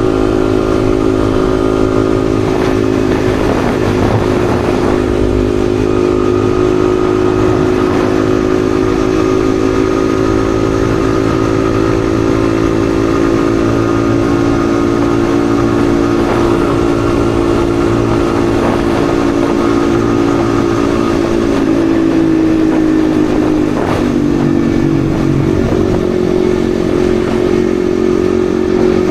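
Yamaha XSR155's single-cylinder 155 cc engine running at a steady cruise. Its pitch drops slightly about two-thirds of the way through as the throttle eases, then holds steady again. Low rumble underneath.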